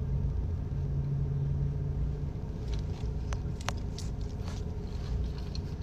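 Steady low rumble like a car idling, heard from inside, with a few faint clicks and taps a little past the middle.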